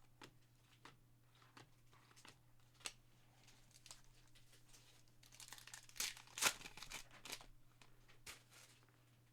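Trading card pack wrapper being torn open and crinkled, among light clicks of cards being handled. The loudest crackle of tearing comes about six seconds in.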